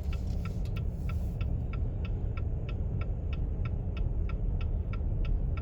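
A car's hazard-light flasher ticking evenly, about three to four ticks a second, over the low rumble of the car driving slowly on snow.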